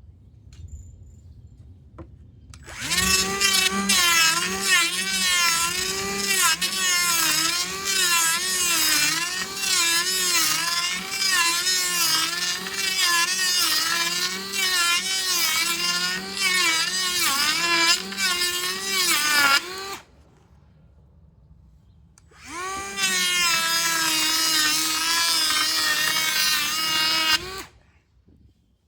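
Electric wood planer cutting a board in two runs: a long one of about seventeen seconds, then after a short pause a shorter one of about five seconds. The motor's whine wavers up and down in pitch throughout as the load on the cutter changes.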